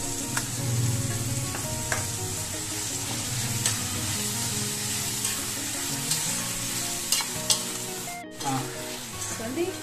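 Chopped onions, tomatoes and green chillies sizzling in oil in a kadai, stirred with a stainless-steel perforated ladle that scrapes and clicks against the pan several times.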